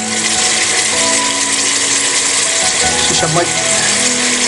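Mutton frying in a cooking pot, with a steady sizzle throughout.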